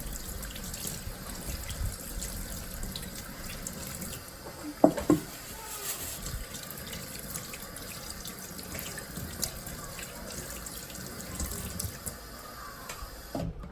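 Water running steadily into a kitchen sink, with small clicks and a short louder clatter about five seconds in.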